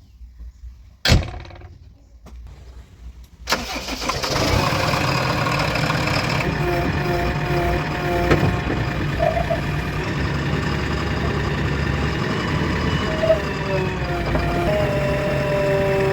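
A sharp click about a second in. A few seconds later a heavy diesel engine starts suddenly and settles into a steady run.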